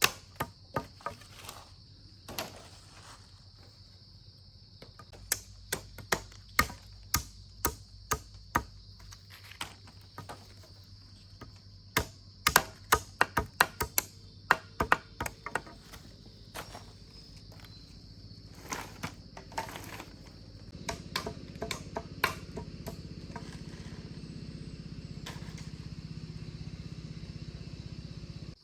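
Runs of sharp tool blows on wood, quick strokes in irregular bursts, over a steady high-pitched buzz. A low steady hum comes in about two-thirds of the way through.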